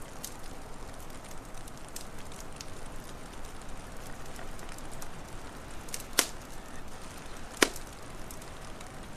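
Wood fire crackling over a steady hiss, with scattered small ticks and two sharp pops, about six and seven and a half seconds in.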